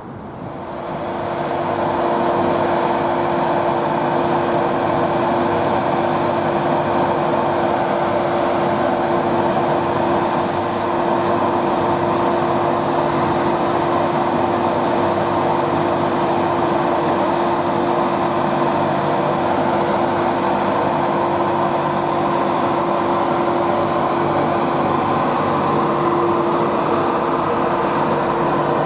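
A train running close by, building up over the first two seconds and then holding loud and steady with a constant hum. There is a brief high hiss about ten seconds in.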